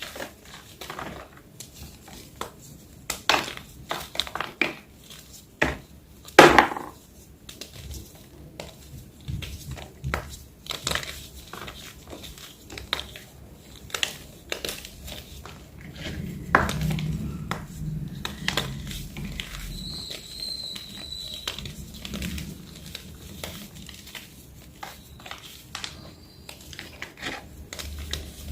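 Block of plain white gym chalk being crunched and crushed, giving irregular dry cracks and crumbly snaps, with one loud crack about six seconds in.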